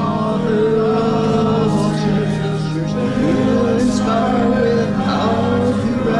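Congregation singing a hymn together, over an accompaniment with long held low notes.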